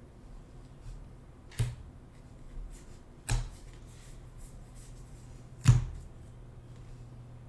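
Trading cards and packs being handled at a table: three sharp taps or clacks, the loudest about two-thirds of the way through, over a low steady hum.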